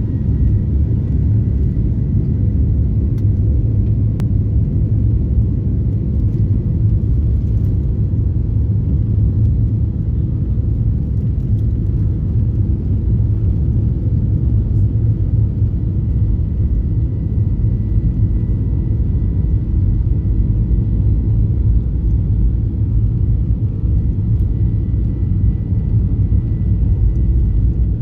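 Airliner taking off: a loud, steady low rumble with faint high tones above it.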